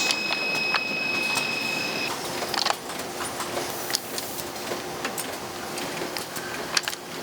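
Factory machinery running, with scattered clicks and clacks over a steady mechanical noise. A high, steady tone sounds for about the first two seconds and then stops.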